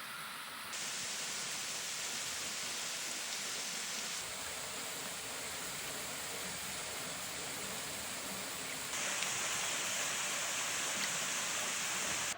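Steady rush of falling water, a dense even hiss. It jumps in level abruptly three times.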